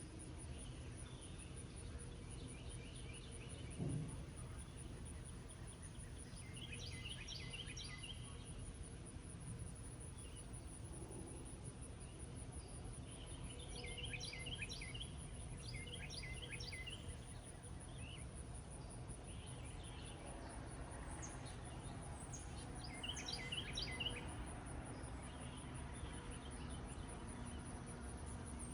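Songbirds singing in several short phrases of quick notes, over a continuous high, pulsing insect trill and a steady low background noise. A single low thump about four seconds in.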